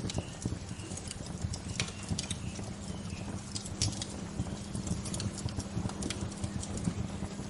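Wood campfire crackling, with irregular sharp pops and snaps over the low, steady rumble of the burning fire.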